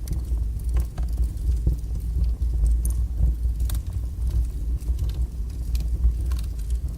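Fire burning strongly in a fireplace: a steady low rumble of flames with scattered small crackles and pops.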